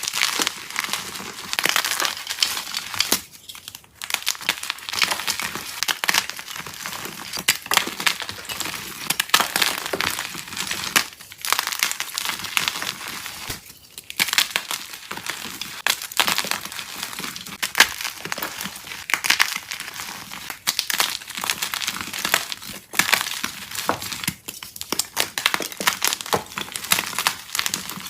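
Soft dyed chalk being crushed and crumbled, a dense crackling crunch that keeps going, with a few short pauses.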